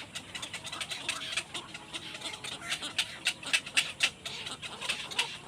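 Baby birds cheeping: many short, high, rapid chirps, several a second, overlapping without a break.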